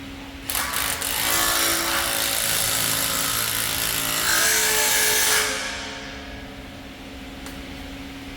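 A power tool runs loudly for about five seconds, then winds down and fades out.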